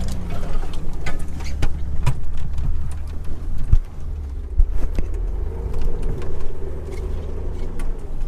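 Off-road Jeep's engine running steadily at crawling speed, a low rumble, with scattered knocks and clunks as it moves over trail rocks. A steadier mid-pitched engine note joins in during the last few seconds.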